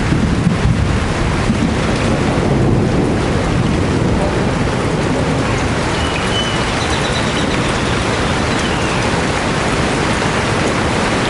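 Steady heavy rain, with a constant low rumble underneath. A faint high chirp, likely a bird, comes about six to seven seconds in.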